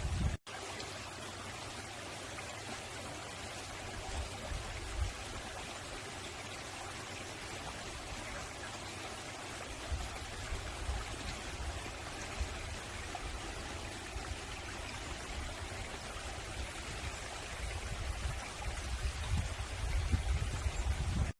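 Mountain valley stream flowing with a steady rush of water, with a low rumble swelling now and then. The sound cuts out for an instant just after the start.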